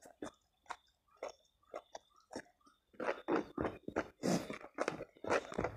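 Close-up mouth sounds of a person eating spicy instant noodles and rice: soft, wet chewing clicks at first, then louder, quicker chewing from about three seconds in.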